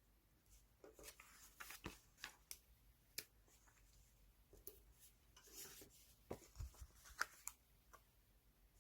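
Quiet handling of paper and stationery: scattered small clicks and taps mixed with short rustles of paper, with the sharpest taps about three seconds and seven seconds in.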